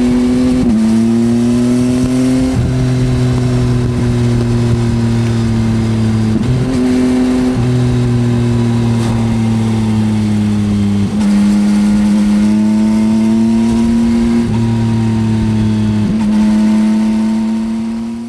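2024 Yamaha XSR900 three-cylinder engine with an Akrapovič exhaust under way on the open road. Its note climbs slowly, with several short breaks where it shifts gear, and fades out near the end.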